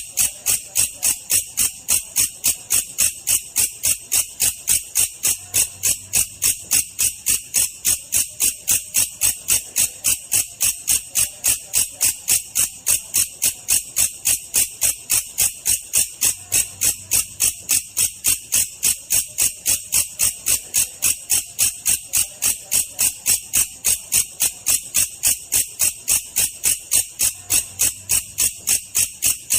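Belalang kecek katydid calling, a slow version of its song: an even, unbroken train of short high chirps, about three a second.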